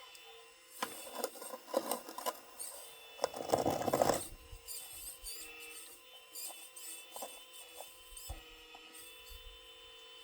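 Small metal RC model excavator working: a steady whine from its small motors under irregular metal clicks, rattles and scratchy scraping, with a louder, denser scraping burst about three seconds in.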